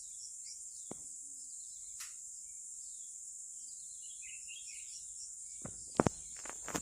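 Steady high-pitched insect chorus with scattered bird chirps. About six seconds in comes one sharp, loud crack, the shot of a PCP air rifle, with a few smaller clicks just around it.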